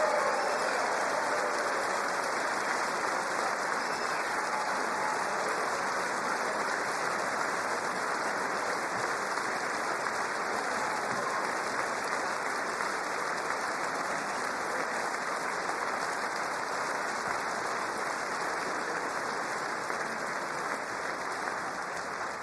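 A large audience in a big hall applauding steadily, the clapping fading slightly toward the end.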